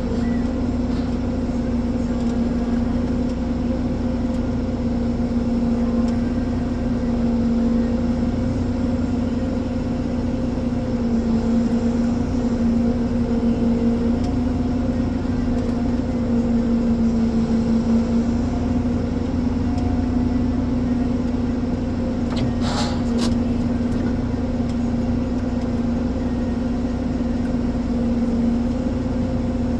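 Ponsse Elephant forwarder's diesel engine running steadily, a constant hum that swells slightly now and then, with a single brief knock about two-thirds of the way through.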